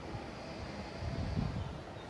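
Outdoor town ambience: a steady low rumble with wind buffeting the microphone, swelling about a second and a half in.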